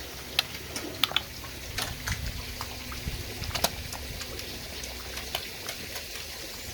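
Pond animals feeding at the surface on freshly thrown-in weed, fighting over it: irregular small splashes and sharp clicks of water over a steady low background.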